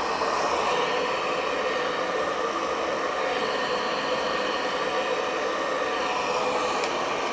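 Hand-held hair dryer running steadily, blowing on hair while it is styled.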